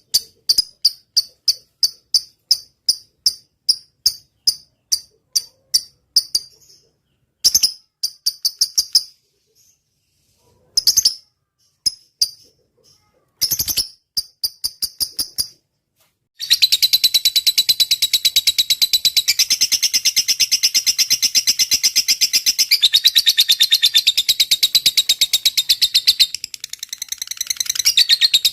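Lovebird singing: a string of sharp high chirps, a few short bursts with pauses between them, then about halfway a long unbroken, very fast ticking trill (the 'ngetik panjang' call).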